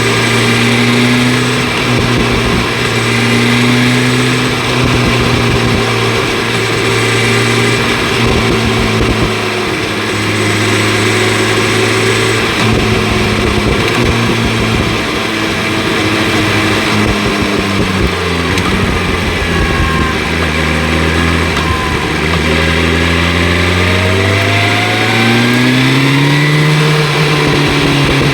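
BMW S1000 RR inline-four sportbike engine with an Akrapovic exhaust running under way. It holds a fairly steady pitch, drops lower about two-thirds of the way through, then climbs steadily for several seconds before easing off near the end.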